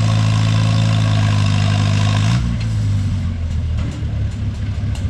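Antique pulling tractor's engine running at a steady high speed under load while pulling the weight sled. About two seconds in it is throttled back as the pull ends, dropping to a lower, rougher running.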